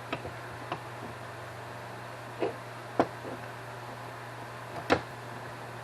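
Scattered light clicks and taps of hand tools and small metal carburetor parts being handled while a screw is taken off the end of the throttle shaft. There are about seven sharp ticks, the loudest about three seconds and five seconds in, over a steady low hum.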